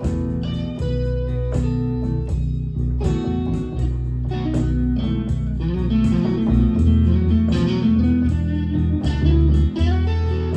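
Guitar-led instrumental break of a song, with deep bass notes underneath and no singing.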